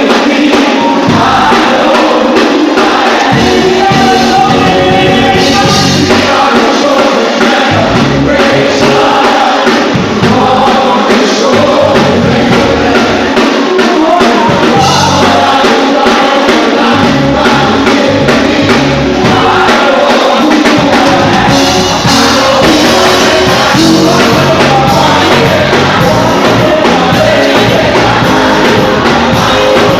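Live gospel music: a choir and singers with a band, with bass and drums.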